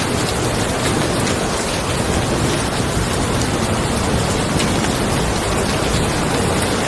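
Steady rain falling on a car, a dense even hiss with scattered individual drops ticking.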